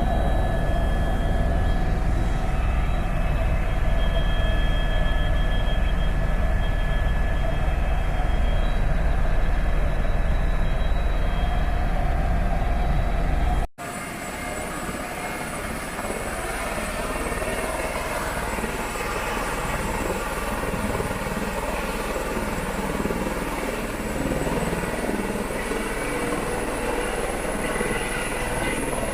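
Helicopter in flight: steady rotor and turbine drone with a strong low rumble and several steady whine tones. About halfway through it cuts off abruptly and resumes at once with less low rumble and clearer high whines, as after an edit.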